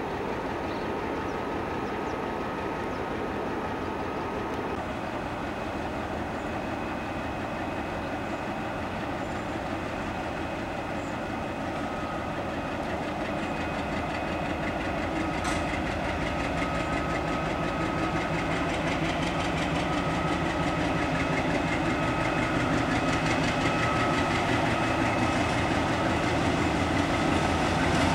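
A train approaching, its running noise growing slowly louder, with faint steady whining tones over it.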